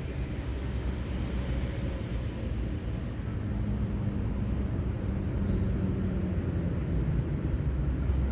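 Low engine drone with held low tones, slowly growing louder.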